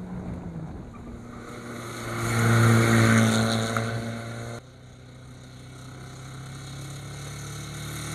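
Rally car engine revving as the car nears, loudest about two and a half seconds in. The sound cuts off abruptly, then another rally car's engine grows steadily louder as it approaches.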